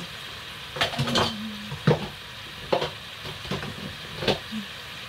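Plantain frying in a pot of oil on a gas stove, sizzling steadily, with several sharp clatters of utensils and dishes being handled in a plastic dish rack.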